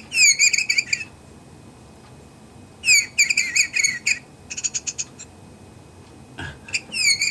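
Light-activated electronic chirping bird ornament playing its synthetic birdsong through its small speaker. It gives three bursts of quick chirps, each opening with a falling sweep, with a run of short rapid pips in between and a click shortly before the last burst.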